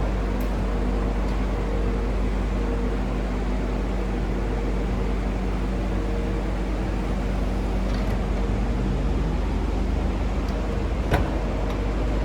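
Lexus LC500 Convertible's power soft top folding open: a steady motor hum under the running car, which stops about nine seconds in, then one sharp click about eleven seconds in.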